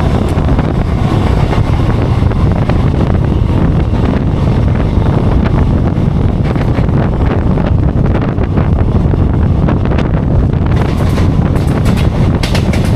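Express train running at speed, with wind buffeting the microphone over the steady rumble and clatter of the wheels on the rails.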